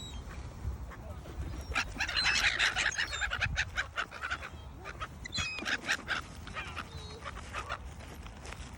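Birds calling: a dense run of short, loud calls from about two seconds in until past the middle, with thin high chirps above them now and then.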